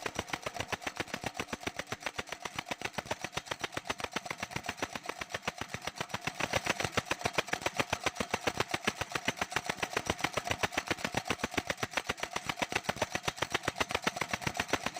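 Restored diaphragm-type air compressor running, pumping with a steady rapid pulse of about ten beats a second that grows somewhat louder about six seconds in.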